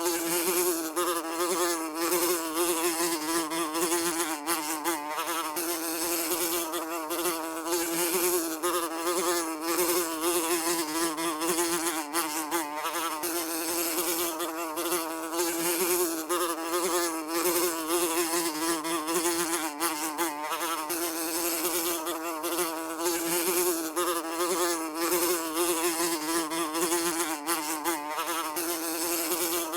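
A fly buzzing continuously in a steady drone whose pitch wavers slightly, with a faint crackle riding over it.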